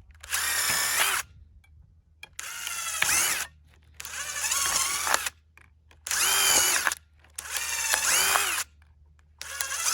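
Power drill run in six short bursts of about a second each, its motor whine rising and falling in pitch with each trigger pull.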